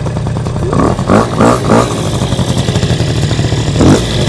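Small scooter engine fitted to a homemade moped, running steadily, with a quick series of about four short throttle blips about a second in and another just before the end.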